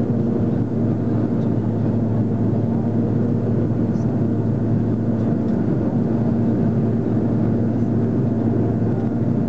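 Steady hum and rush inside the cabin of an Airbus A330-300 in flight on approach: jet engine drone with a few constant low tones under the airflow rumble.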